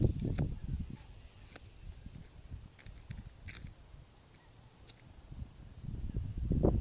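Steady high-pitched insect chorus of crickets or similar insects. There is low rumbling near the start and again near the end.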